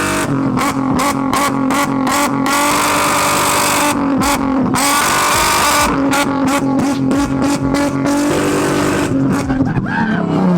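A car engine held at high revs on a two-step launch limiter, stuttering with rapid, regular cut-outs and exhaust pops in several runs. Right at the end the revs start to fall away.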